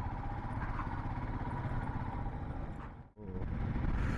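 Motorcycle engine running steadily on the move, a pulsing low rumble. The sound briefly cuts out about three seconds in, then resumes.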